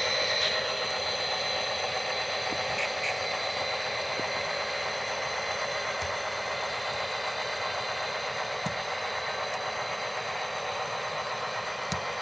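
HO scale model trains running on the layout: a steady mechanical whirring hum with a few faint clicks.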